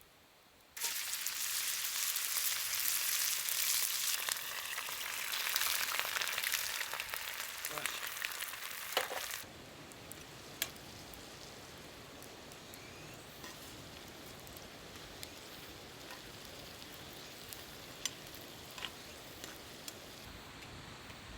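Food sizzling loudly in a hot skillet, starting suddenly about a second in as ingredients hit the pan. The sizzle drops away to a faint hiss after about nine seconds, with occasional small pops and ticks.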